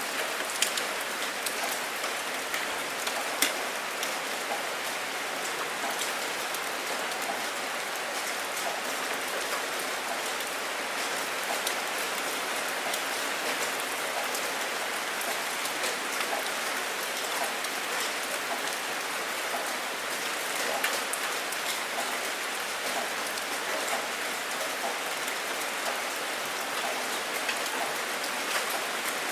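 Steady rain falling, an even hiss with scattered individual drops ticking sharply, a couple of them louder about half a second in and near three and a half seconds.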